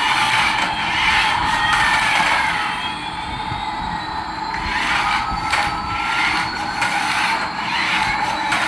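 Small electric motor of a remote-control toy whirring, with faint whining tones gliding up and down in pitch.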